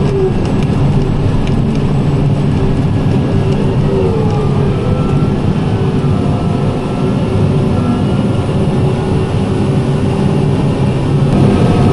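Diesel engine of a large farm machine running steadily under load with a constant drone.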